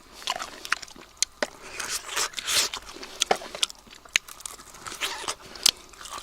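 A person chewing and biting crunchy food, with irregular sharp crunches and cracks.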